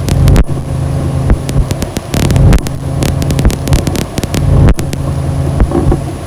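Ambient noise music: a loud low droning hum, broken throughout by sharp crackles and clicks, with a thin high whine above it.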